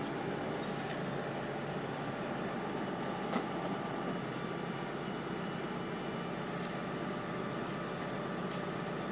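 Steady mechanical hum with faint steady tones, and one sharp click about three seconds in.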